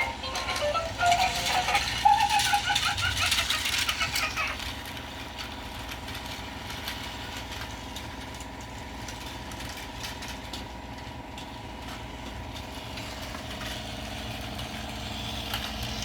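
Tomy Plarail battery-powered toy bullet train running on plastic track: a steady small-motor whir with rattling. A snatch of electronic tune fades out in the first four seconds.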